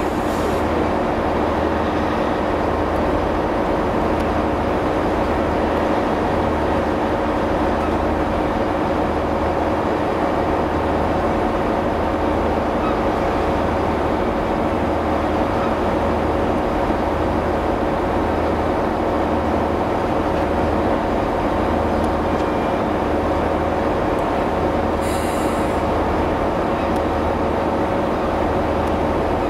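Pullman coaching train running slowly over pointwork, with a steady low hum that throbs about once a second. A brief hiss comes near the end.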